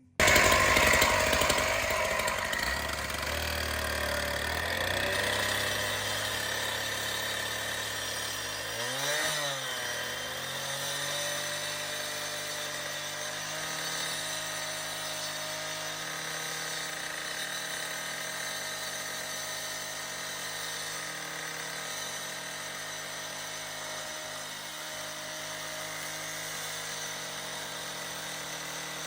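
A power tool running steadily, starting abruptly; its pitch dips and recovers about nine seconds in.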